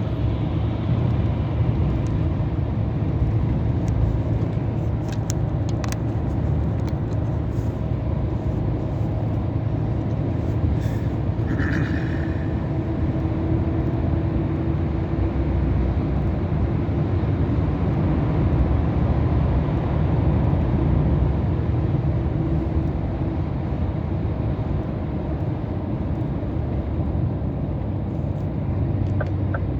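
Steady drone of a Scania R500 truck's engine and road noise heard from inside the cab while cruising on the highway. A row of quick, evenly spaced ticks starts right at the end.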